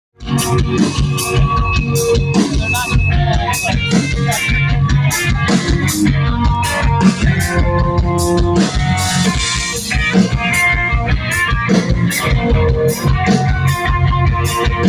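Rock band playing live: drum kit with regular cymbal hits, guitars and bass, with no singing yet. The music cuts in suddenly from silence right at the start.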